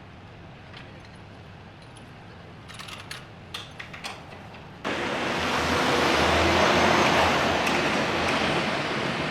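A few light clicks and jangles, then a sudden loud, steady rushing noise about five seconds in that swells and eases slightly: a semi-truck starting up and running.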